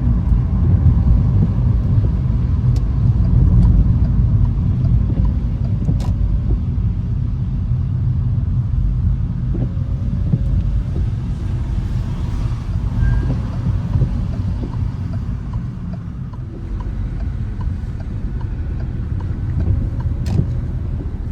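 Car driving on city streets: a steady low rumble of engine and tyres, with a sharp click about six seconds in and another near the end.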